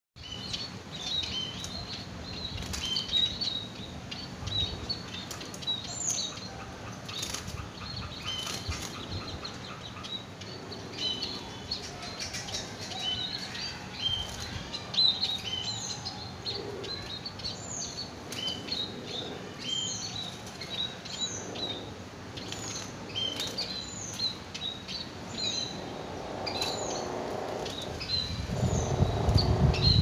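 Small birds chirping repeatedly: many short, high calls, some sweeping downward in pitch. A low rumble builds near the end.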